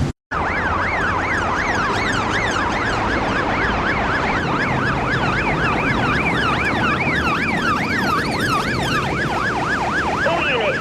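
Police car siren in fast yelp mode, its pitch sweeping up and down about three times a second, over the noise of a speeding car's engine and tyres. A very brief cut to silence right at the start.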